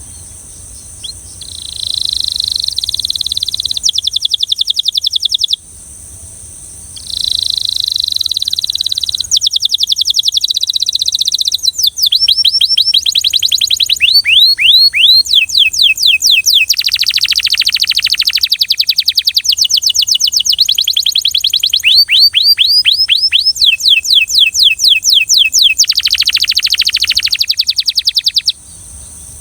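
Belgian canary singing a long run of fast trills and rolls, each phrase a quick string of repeated notes, changing pitch and pattern from phrase to phrase. The song pauses briefly about a fifth of the way in, then runs on and stops shortly before the end.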